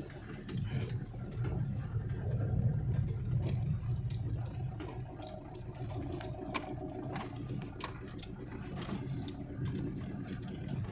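Steady engine and road rumble of a moving car.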